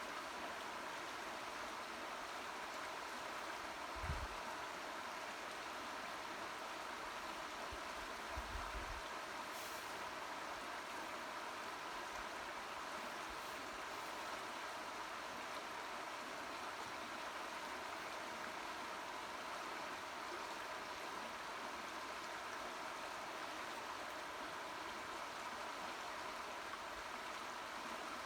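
A swollen, fast-flowing river rushing steadily. Two brief low bumps about four seconds and eight seconds in.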